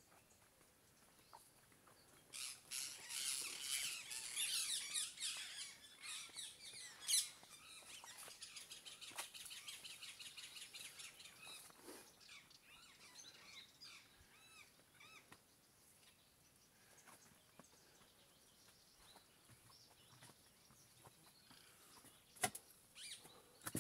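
Many birds chirping together, thick from about two seconds in until about halfway, then thinning to a few scattered calls; a couple of sharp clicks near the end.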